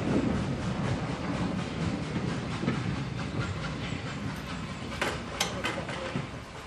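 A train of passenger coaches rolling away along the track, its wheels clattering and the sound fading steadily, with a few sharp clicks about five seconds in.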